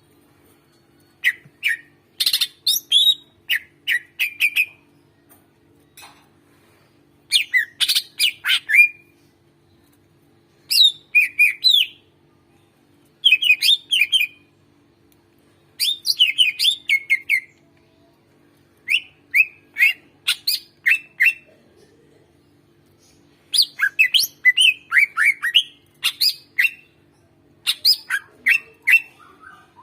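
Greater green leafbird (cucak ijo) singing in full song: short phrases of rapid, sharp chattering whistles, a new phrase every two to three seconds.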